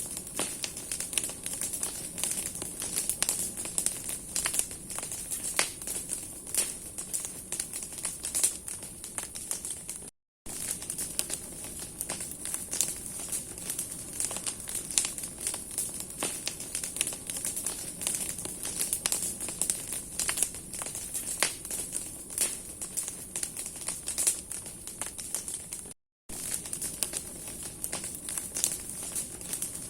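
Large bonfire of branches burning, the wood crackling in a dense, irregular stream of sharp snaps. The sound cuts out completely for a moment twice, about ten seconds in and again near the end.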